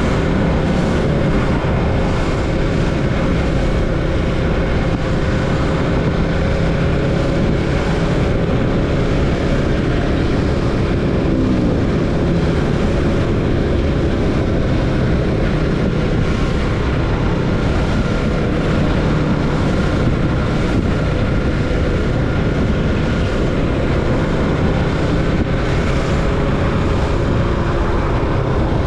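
Yamaha MT-25's 250 cc parallel-twin engine running at a fairly steady pace through an Akrapovic slip-on exhaust with its silencer insert fitted, the note drifting only slightly in pitch.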